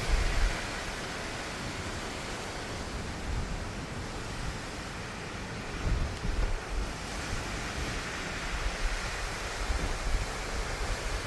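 Strong hurricane wind blowing steadily, with gusts buffeting the microphone as low rumbles about six seconds in and again near the end.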